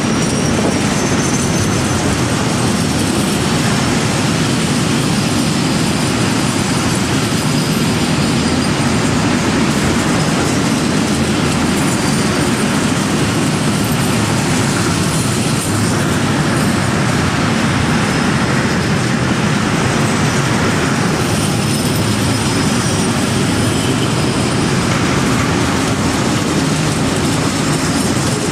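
A train running past at close range: a steady, loud rumble of wheels on rail that holds for the whole stretch, with faint high wheel squeal.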